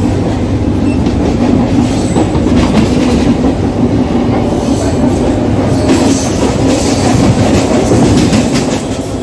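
Mumbai suburban local (EMU) train running at speed, heard from on board: a loud, steady rumble of wheels on rails, with brighter stretches of rattling in the second half.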